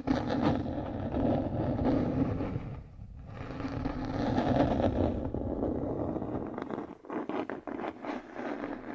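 Close-miked scraping and rubbing that swells and fades, with a short run of quick crackling taps around seven seconds in.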